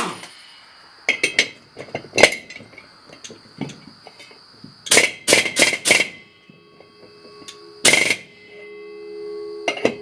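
Sharp metal clanks and knocks from steel disc-harrow parts being handled and wrenched on the gang bolt, each strike leaving a short high ringing from the steel coulter discs; four come in quick succession near the middle. A faint steady hum swells near the end.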